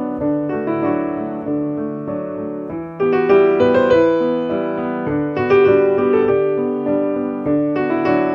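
Background piano music: a slow melody over sustained chords, with new notes struck about three seconds in and again near the middle.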